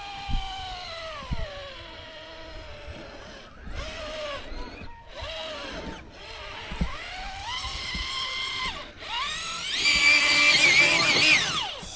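Electric motor and drivetrain of an RC rock crawler whining under load, its pitch rising and falling with the throttle, with the odd knock from the truck on rock. The whine is loudest and highest about ten seconds in, where the motor is straining on the climb.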